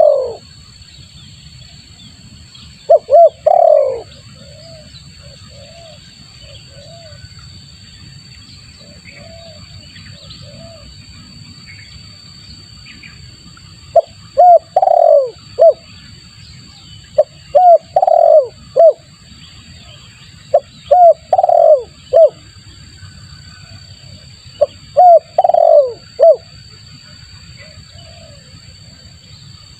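Spotted dove (tekukur) cooing in repeated multi-note phrases. One loud phrase comes about three seconds in, softer coos follow, and from about fourteen seconds in loud phrases repeat every two to three seconds. It is a lure call (pikat) for drawing in wild spotted doves.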